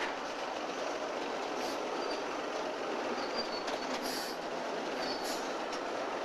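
Train of coal cars rolling on the track: a steady noise of wheels on rail, with several short high-pitched wheel squeals.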